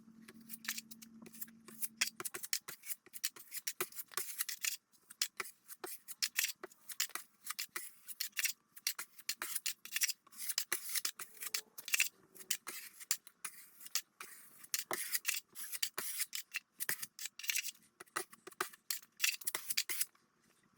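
Drywall knife scraping joint compound across a drywall patch in many quick, irregular strokes while skim-coating the low spots.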